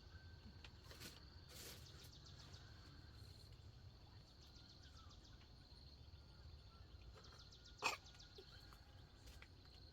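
Near silence with faint insect chirping in rapid pulsed series, and one sharp click about eight seconds in.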